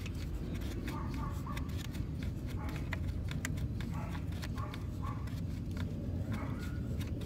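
Fingers working at a car radiator fan's wiring harness and plastic connector clip: a run of small irregular clicks and rustles over a steady low rumble.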